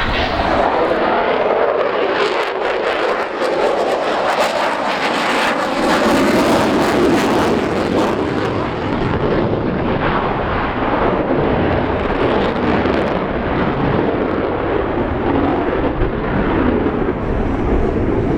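Loud jet noise from the F-22 Raptor's twin F119 turbofans during a display pass, crackling for the first several seconds and then dulling to a lower rumble as the high end fades about halfway through.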